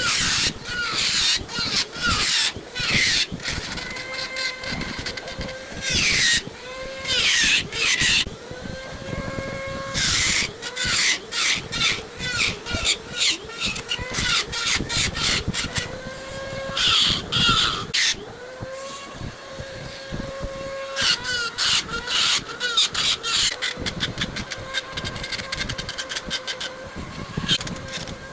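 Handheld power tool shaping wood in repeated passes. Each pass gives a rough rasping burst, and the motor note sags under load, then picks up again between passes.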